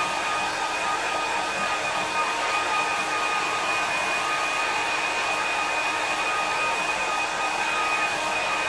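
Hair dryer blowing steadily, a rush of air with a steady motor whine, drying a wet watercolour wash.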